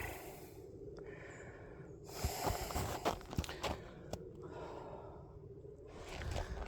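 A runner's footsteps breaking through an icy snow crust, crunching in irregular clusters of sharp cracks.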